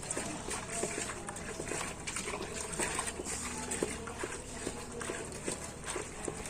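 Bitter leaf being squeezed and rubbed by hand in a bowl of water: irregular wet squelching and small splashes, a few strokes a second, as the bitterness is washed out.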